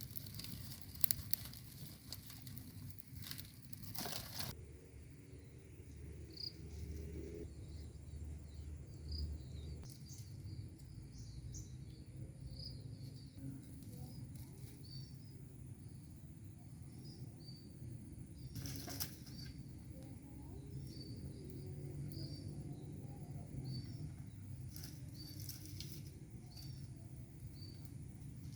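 Outdoor ambience of wind buffeting the microphone in a low rumble, with a few sharp clicks and many short, high chirps scattered through it.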